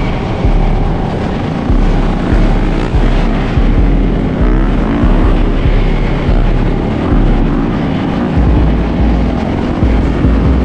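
Several dirt bike and ATV engines buzzing and revving, their pitch rising and falling.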